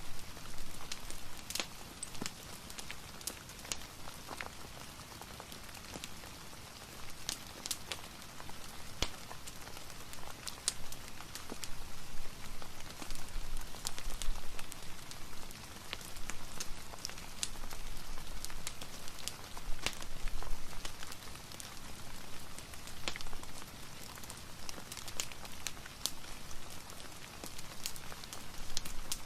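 Steady rain mixed with a fireplace fire crackling, with irregular sharp pops scattered throughout.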